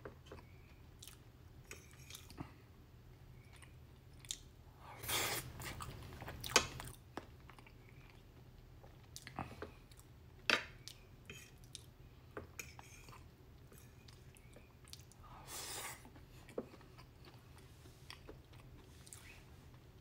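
A person chewing and eating close to the microphone, with small wet mouth clicks throughout and two louder noisy stretches, about five and fifteen seconds in.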